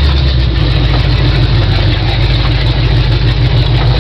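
1974 Ford F100's 351 Windsor V8 running steadily through open headers, a loud, deep, even exhaust note.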